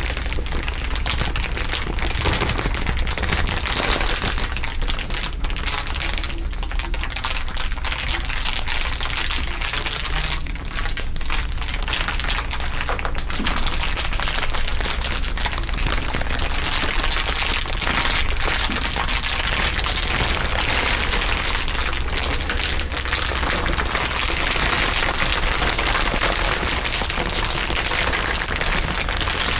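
Dense, continuous crinkling, several layers of crinkle sounds heard over one another as a steady crackle, with a steady low rumble underneath.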